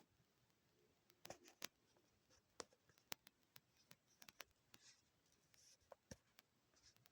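Near silence with faint, scattered clicks and light taps, like small handling noises close to the microphone.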